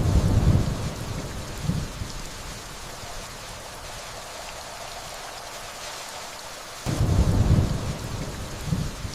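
Steady rainfall with two low rolls of thunder, one beginning suddenly at the start and another about seven seconds in; each rumbles for about two seconds, swells once more, then fades back under the rain.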